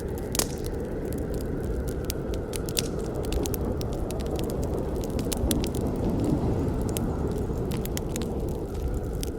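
Wood fire burning: a steady low rumble of flames with irregular sharp crackles and pops, one louder pop about half a second in.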